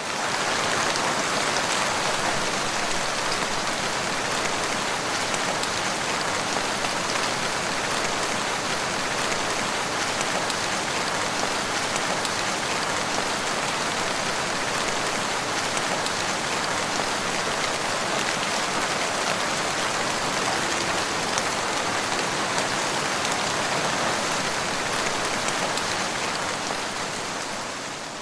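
Steady rain falling, an even hiss of many drops hitting the ground. It fades in at the start and fades out near the end.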